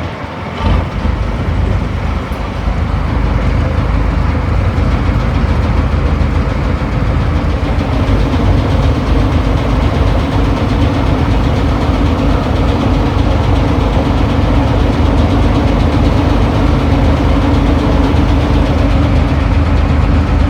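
A boat's heavy engine running steadily with a fast, low, pulsing beat, growing louder over the first few seconds and then holding even.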